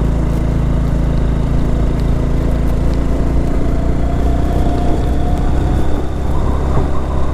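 112 cc TVS Victor motorcycle's single-cylinder four-stroke engine running while riding, with a steady low rumble; a faint rising whine comes in about halfway through.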